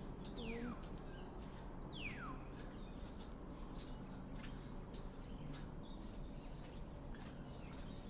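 Wild birds calling: two clear whistles sliding downward in pitch near the start, about a second and a half apart, over faint high chirps and ticks.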